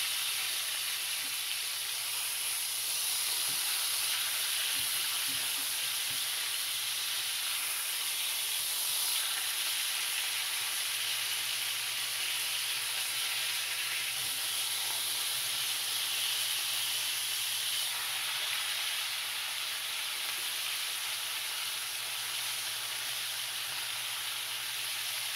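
Chicken pieces frying in oil in a cast-iron skillet, with onions and bell peppers cooking in a second pan: a steady sizzle. A few light clicks of metal tongs turning the pieces come in the first several seconds.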